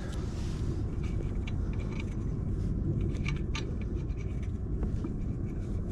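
Light metallic clicks and scrapes of a lug nut being turned by hand onto a wheel stud, over a steady low rumble. The nut is reluctant to thread on.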